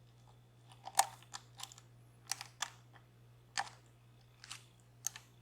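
Scattered light clicks and ticks of a lock pick and tension wrench working the pins inside a DOM Plura lock, about eight irregular clicks over a faint steady hum.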